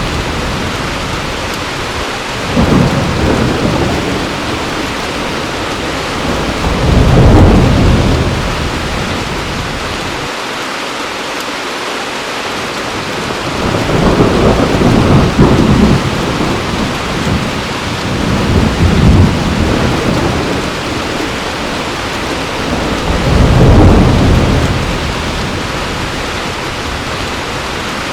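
Heavy rain falling steadily, with thunder rumbling in about five long rolls that swell and fade every few seconds.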